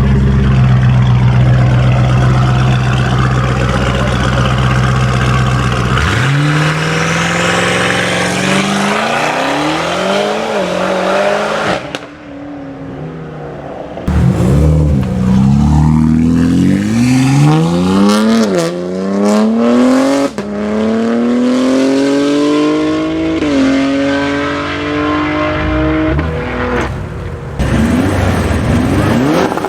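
Tuned car engines under hard acceleration. A steady engine note gives way about six seconds in to rising revs with repeated gear changes, and the pitch drops at each shift. There is a short quieter stretch about twelve seconds in.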